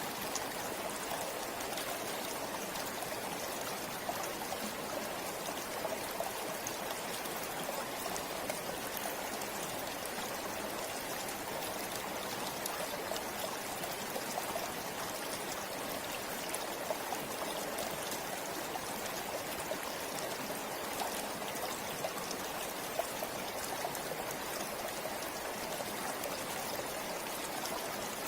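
River water flowing: a steady, even rush with a light babble of small trickles and splashes.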